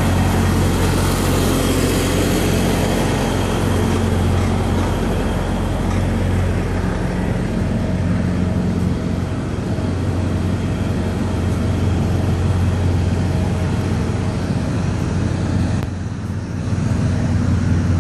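Idling diesel truck engines, a steady low drone that eases briefly near the end.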